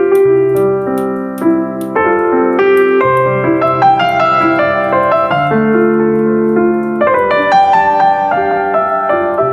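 Piano music: sustained chords with a slow melody, new notes struck about every half second to a second.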